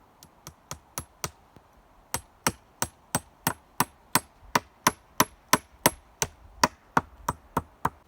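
Hammer blows on wood, each with a short metallic ring: a few strikes, a pause of about a second, then a steady run of about three blows a second.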